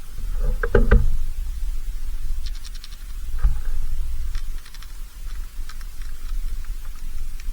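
Scratching and knocking at a backyard bird feeder, with a few louder knocks near the start and a run of quick high clicks around the middle, over a steady low rumble.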